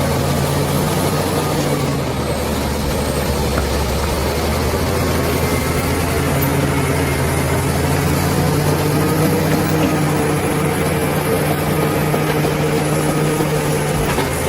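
Bulldozer's heavy diesel engine running steadily, its low pitch dipping and rising a little as the load changes.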